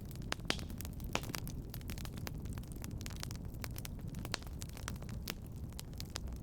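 Wood fire crackling in a fireplace: a steady low rumble of flames with sharp pops and snaps at irregular moments, about one or two a second.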